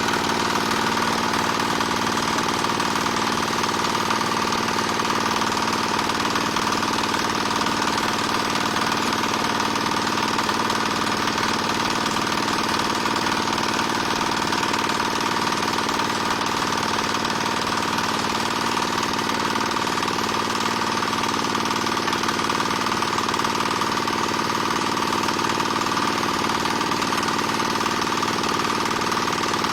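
Diesel engine running steadily at constant speed, driving a single-screw palm fruit oil press, with a rapid hammering beat.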